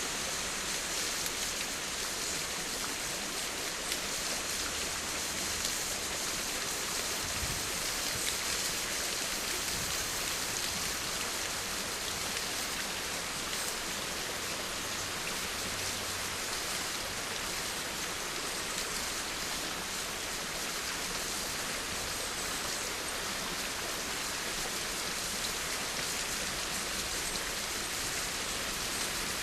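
Steady rain falling, an even hiss with close drops pattering on a surface.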